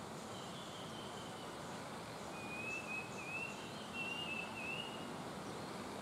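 Steady outdoor background hiss, with a bird's thin, wavering whistled song from about two to five seconds in and a weaker one shortly after the start.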